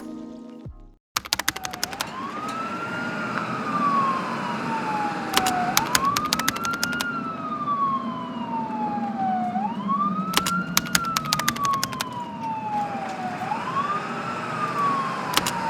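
Emergency vehicle siren in a slow wail, starting about a second in: each cycle rises quickly and falls slowly, roughly every four seconds, with clusters of sharp clicks over it.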